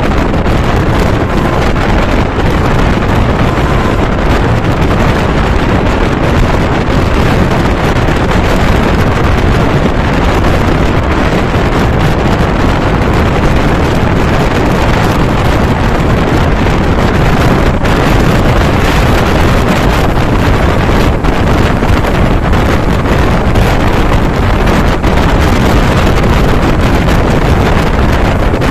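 Long goods train hauled by a WAG-12B electric locomotive running past at speed: a loud, steady rush and rumble of wheels and wagons, with heavy wind buffeting on the microphone.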